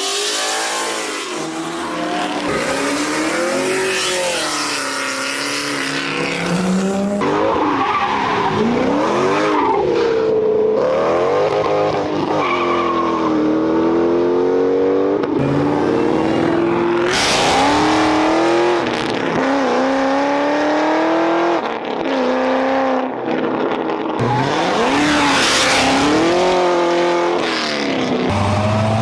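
A car doing a burnout: the engine revs up and drops back over and over while the spinning tyres squeal.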